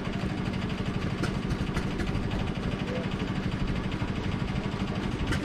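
An engine idling steadily with a rapid, even beat.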